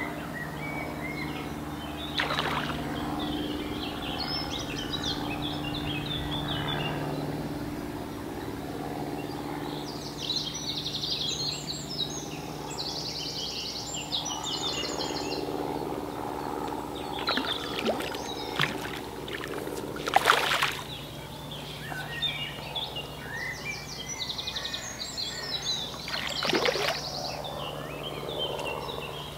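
Songbirds singing in repeated short chirping phrases over a steady low hum, with a few brief sharp knocks or splashes, the loudest about twenty seconds in.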